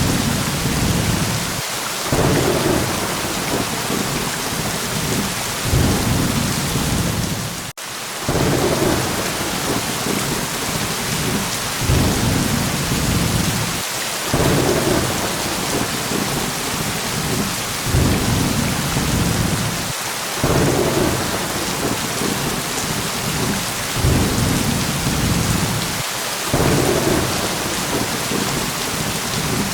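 Steady heavy rain with low rolling thunder rumbles swelling every few seconds in a repeating pattern. A brief dropout about eight seconds in.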